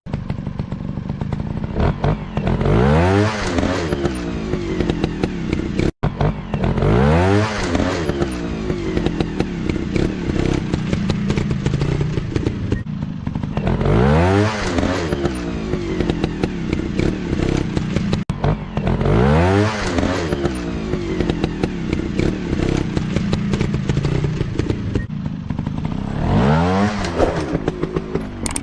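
Dirt bike engines running, revved hard again and again: about five times the pitch climbs and falls back, roughly six seconds apart, over the steady drone of the engines.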